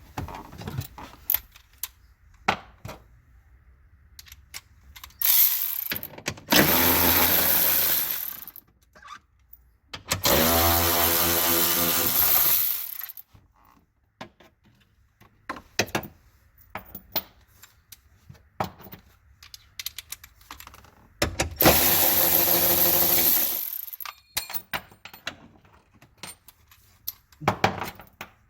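A small power tool runs in four bursts of about one to three seconds, the longest with a steady pitched whine, amid scattered sharp clicks and clanks of tools and hardware being handled, typical of bolts being run out during a car battery removal.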